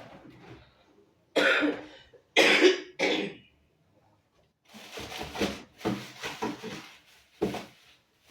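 A person coughing three times in quick succession, followed by quieter voice sounds.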